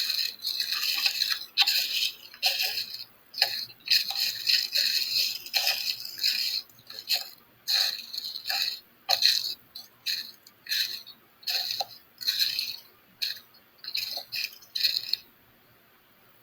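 Irregular rattling and clattering in quick bursts, each lasting less than a second, which stop about a second before the end.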